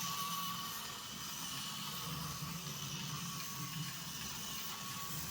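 Turbo Racing C50 micro RC semi truck's tiny electric motor and gears whirring steadily while it drives on the high speed setting.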